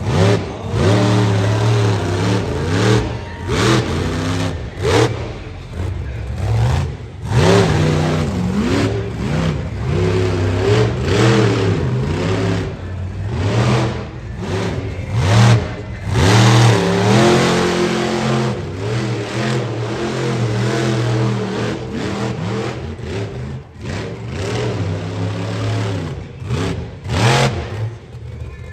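Monster truck engine revving hard, its pitch rising and falling again and again as the throttle is blipped and held.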